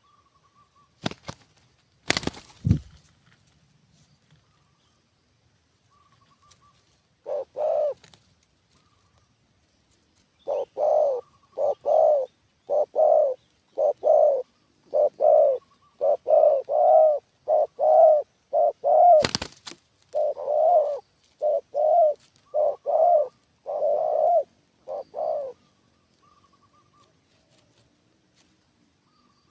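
A dove cooing in a fast, insistent run of low coos, roughly one to two a second for about fifteen seconds, after a single opening call. A few sharp knocks come near the start and one in the middle.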